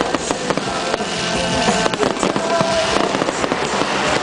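Firecrackers and fireworks going off in a dense, unbroken stream of rapid cracks and pops, with music playing underneath.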